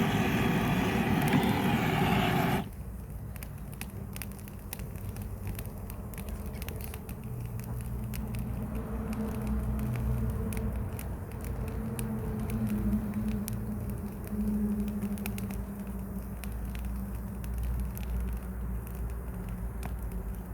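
A loud steady roar cuts off sharply about two and a half seconds in. After it, a wood fire crackles with scattered sharp pops over a low steady rumble.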